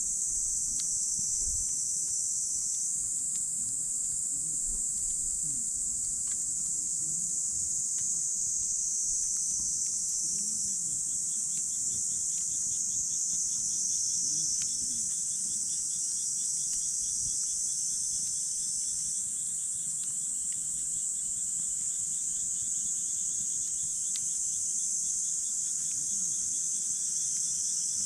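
A steady, loud chorus of insects shrilling, with a second insect trilling in quick pulses from about 11 to 18 seconds in. Faint scattered crackles of the campfire and a soft low rumble of the flames underneath.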